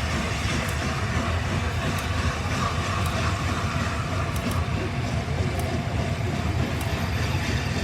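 A train running with a steady low rumble and faint occasional ticks.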